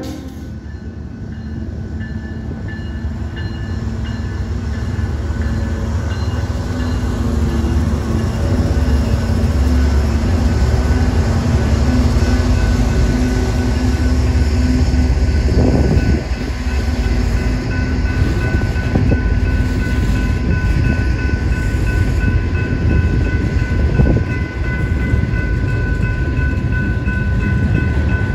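Freight train rolling past close by: a heavy, steady rumble of car wheels on the rails that grows louder over the first several seconds, with steady high-pitched tones above it and a couple of sharp clanks, one about halfway through and one near the end.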